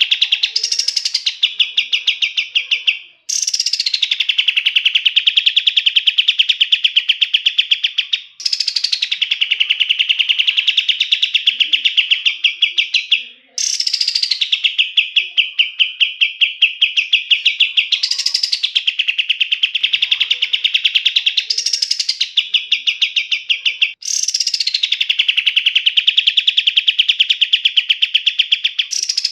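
Kapas tembak songbird singing long rolling trills: each phrase opens with a quick rising sweep, then runs on as a fast stream of repeated notes for several seconds before a brief pause.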